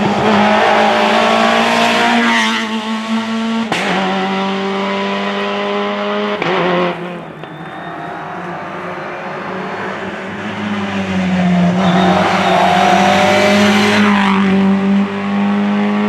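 Rally car engine run hard on a special stage, its note jumping abruptly at gear changes. It drops away around seven seconds in and builds up again loudly toward the end.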